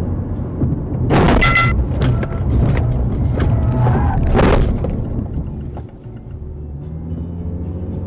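Vehicle collision heard over steady engine and road hum: a loud crash about a second in, then a run of knocks and clatter and a second loud crash near the middle. The hum gives way to a different steady engine hum near the end.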